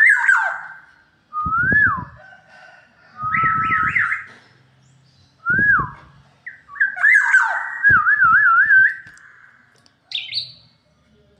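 Black-naped oriole (kepodang) singing: a string of loud, fluty whistled phrases every second or two, some gliding up and falling, one longer phrase with a wavering trill.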